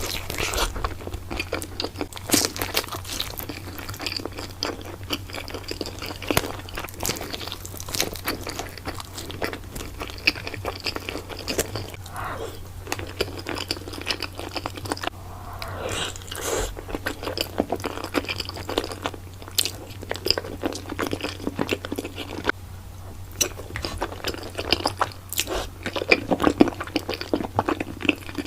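Pizza being eaten close to the microphone: repeated bites into crisp crust with crunching and chewing throughout. A steady low hum sits underneath.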